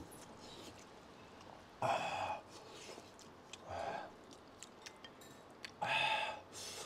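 A man chewing a mouthful of noodles and beef tendon close to a lapel microphone, with faint wet mouth clicks and three short breathy exhales about two seconds apart.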